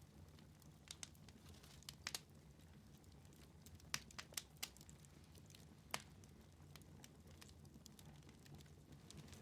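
Wood fire in a fireplace crackling quietly: scattered sharp pops, with a quick run of several about four seconds in, over a faint steady low hum.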